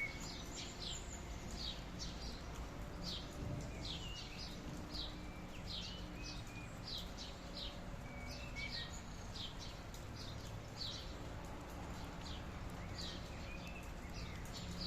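Birds chirping: a continual series of short, high chirps, several a second, with a few lower whistled notes at the start, over a steady low background noise.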